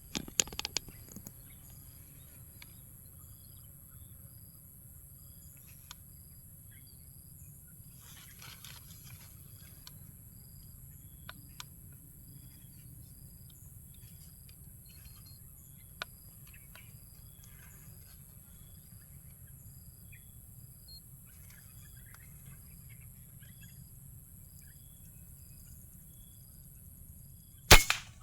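A single sharp shot from a PCP air rifle near the end. Before it there is a steady high hiss and faint short high-pitched calls repeating about twice a second, with a few sharp clicks at the very start.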